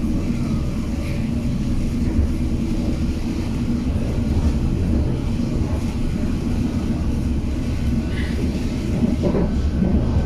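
London Underground District Line train running between stations, heard from inside the carriage: a steady low rumble of wheels and running gear with a faint steady hum.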